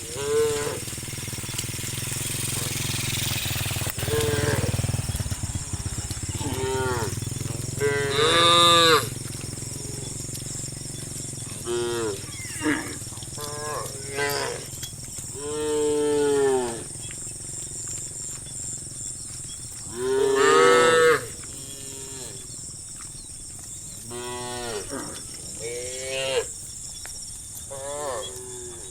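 Repeated animal calls, about a dozen separate arched, pitched cries, each lasting half a second to a second, over a steady high-pitched whine.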